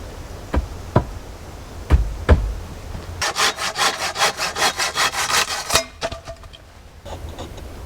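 A few sharp knocks on wood, then a hand saw cutting through wood in quick, even strokes for about two and a half seconds before stopping abruptly.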